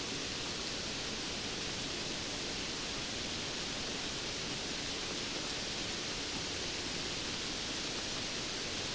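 Steady rainfall, an even hiss that holds level throughout with no single drops or other events standing out.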